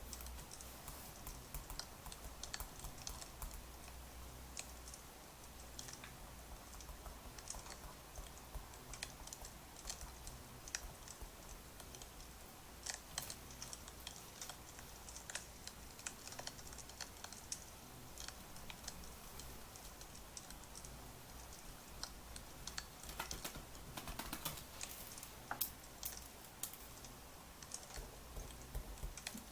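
Crackling wood fire: a steady soft hiss scattered with irregular sharp pops and snaps, busier about three-quarters of the way through.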